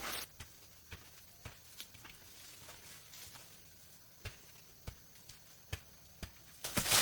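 Scattered light knocks, about eight spread irregularly over a quiet background, with longer gaps in the middle.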